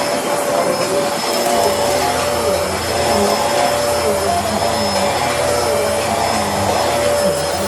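Bissell Helix vacuum cleaner running, a steady motor whine over rushing air, with a lower hum that wavers in pitch.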